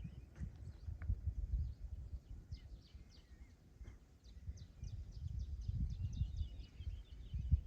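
Small birds chirping in many short, quick calls over a gusting low wind rumble.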